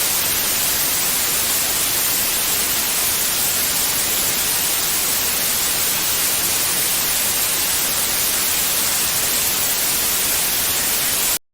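Steady white noise hiss, even and unchanging, strongest in the high end, that cuts off suddenly near the end.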